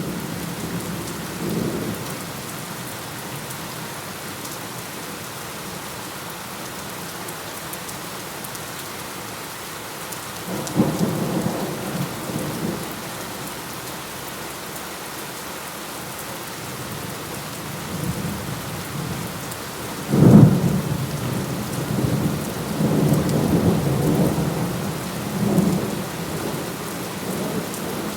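Steady rain falling, with thunder rolling in several times. A sharp thunderclap about two-thirds of the way through is the loudest sound, and rumbling follows it for several seconds.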